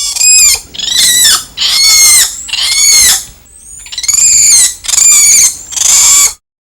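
An animal giving a series of seven high-pitched calls, each under a second long, with the pitch rising and falling within each call. There is a short pause after the fourth call.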